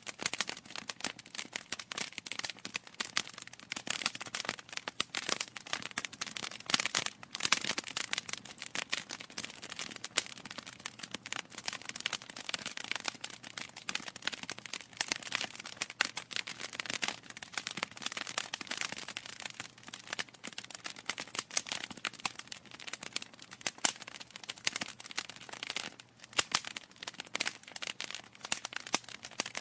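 Wood fire crackling steadily, with dense rapid pops and snaps of burning logs.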